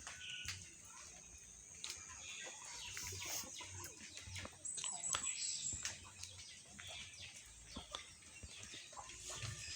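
Village ambience of chickens clucking and small birds chirping in short scattered calls, with a thin high whistle held for about a second near the middle.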